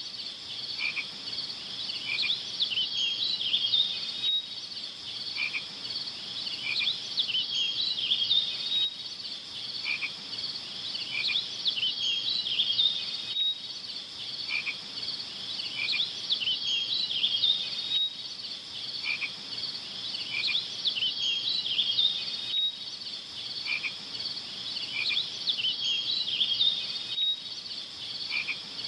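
Nature ambience: a steady high-pitched chorus of small calling animals with short chirping calls over it, the same few-second pattern repeating about every four and a half seconds, as in a looped soundtrack.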